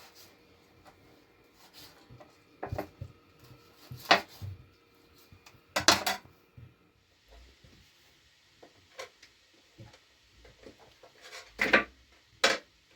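Scattered sharp knocks and clatters of hard objects being handled and set down, about six distinct hits with quiet stretches between.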